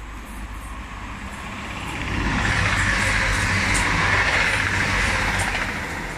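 Grand Central passenger train passing through at speed: a rush of wheels on rail and air that swells about two seconds in, holds loud for a few seconds, then fades as the train goes by.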